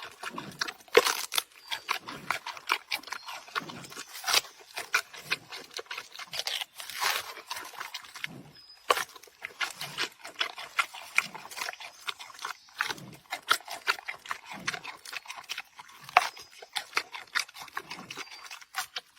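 An animal eating, chewing and crunching food with many quick, irregular crunches.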